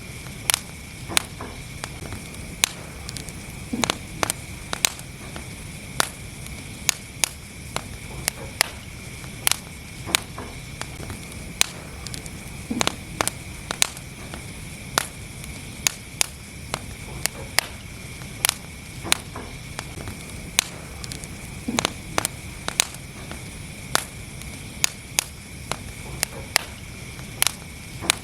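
Wood fire burning in a fireplace, crackling with frequent sharp, irregular pops and snaps, about one or two a second, over a low steady rush of flame.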